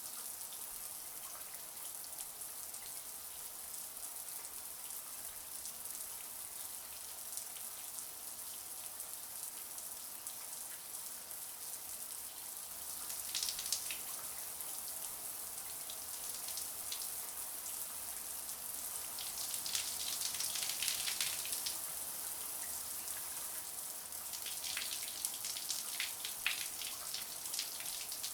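Shower water spraying and splashing, a steady high hiss with bursts of sharper spattering now and then.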